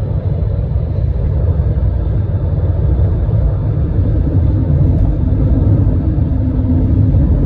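Steady low rumble of road and wind noise in a car at highway speed, pacing a fast freight train.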